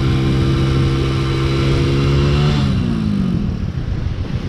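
Royal Enfield 350 single-cylinder motorcycle engine running at steady revs on the move; about two and a half seconds in the revs fall away as the throttle is closed, settling into a lower, uneven beat.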